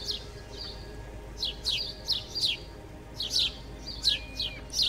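Small birds chirping: repeated short, quick chirps that sweep steeply downward in pitch, mostly in pairs or threes, with gaps between the clusters.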